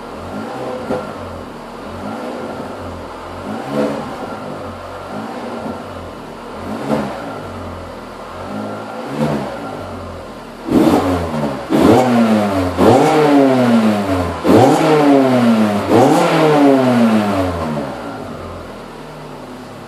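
Volkswagen Lupo GTI's 1.6-litre four-cylinder engine revved through an exhaust with the middle muffler removed and only the stock rear muffler: a few short blips, then about five louder revs that each climb and fall back, settling down near the end.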